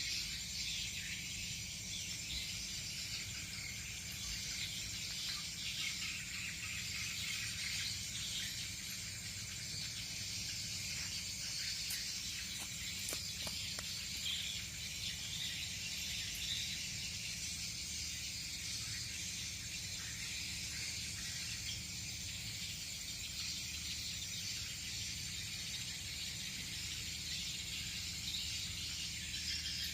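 Crickets and other insects chirring continuously: a dense high shimmer with one steady high-pitched tone, over a low steady rumble.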